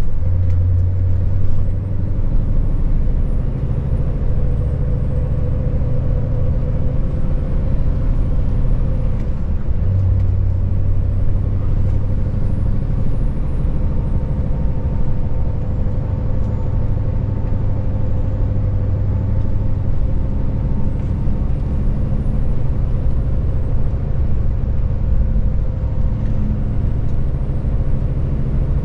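Scania S580 truck's 16-litre V8 diesel engine running steadily while driving, a deep drone mixed with road noise. The engine note gets stronger about a second in and again about ten seconds in.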